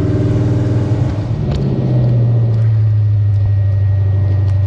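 Chevy V8 of a Jeep Scrambler-bodied tough truck running at idle speed. The engine note dips briefly, with a light knock, about a second and a half in, then holds steady.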